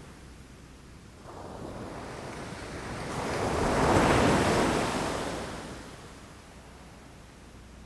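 Ocean waves breaking against rocks: one wave swells up over a couple of seconds, peaks about four seconds in and washes away, over a steady low surf rumble.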